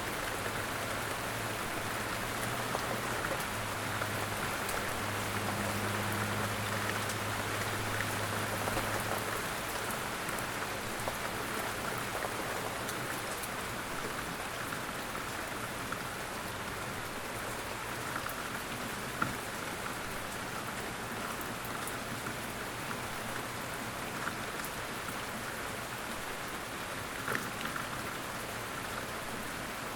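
Steady light rain with scattered individual drops ticking. A faint low hum sits beneath it for about the first nine seconds, then fades.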